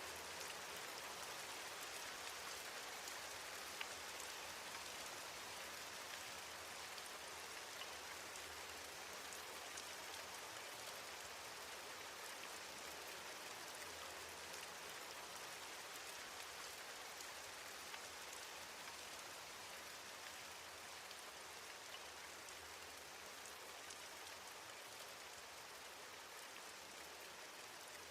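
Steady rain falling: an even hiss with scattered drop ticks, slowly growing a little quieter.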